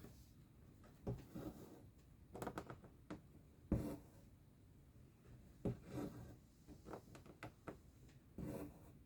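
Needle and thread being worked through cross-stitch fabric: short soft rasps of thread pulled through the cloth and light ticks at irregular intervals, the loudest about four seconds in.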